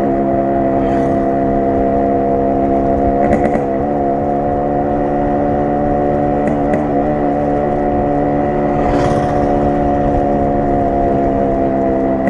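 Yamaha RX 100's two-stroke single-cylinder exhaust note while riding, held at a steady engine speed, with brief wobbles in pitch about three and a half and seven seconds in.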